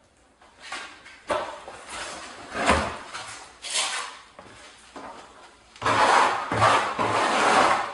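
Wet self-leveling compound being poured and spread over a concrete floor: a series of scraping, sloshing strokes, then a longer, louder stretch of pouring and spreading near the end.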